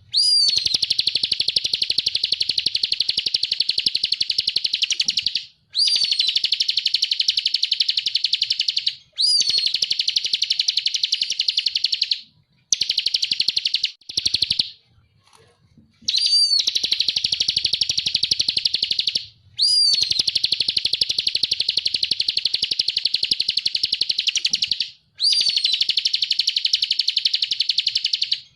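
Ciblek kristal (a prinia) singing loudly in long bouts of a fast, buzzy trill. Each bout opens with a quick rising note and runs three to five seconds, with short breaks between bouts and a longer pause about halfway through.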